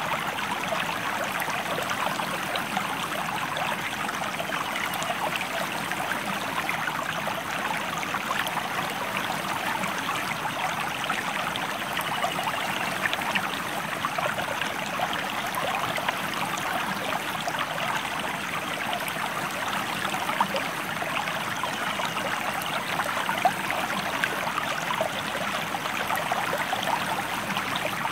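A stream or small river flowing steadily, an even rush of water with a fine trickling, splashing texture that does not let up.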